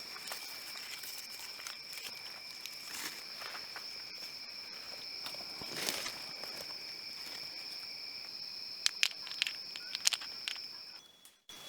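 Steady high-pitched calling of forest wildlife, a continuous trill at two fixed pitches, with scattered clicks and knocks like footsteps or handling on rocks and twigs, several sharp ones near the end. It cuts off abruptly shortly before the end.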